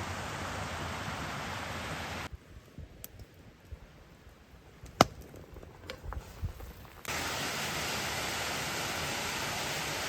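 Steady rush of flowing water, broken by a cut to a quieter stretch with scattered small knocks and one sharp click about five seconds in; the rush then returns and cuts off abruptly.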